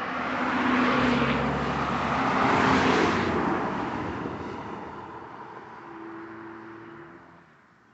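A car passing close by on the road: engine and tyre noise swell to a peak about three seconds in, then fade away.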